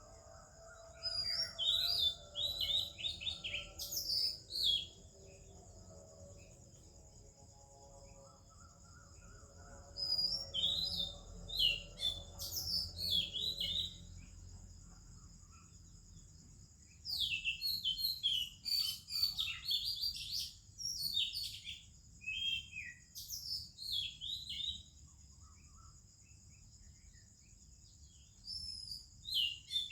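Oriental magpie-robin singing its varied whistled and warbled song in four bouts of rapid phrases separated by short pauses, over a steady high-pitched hum.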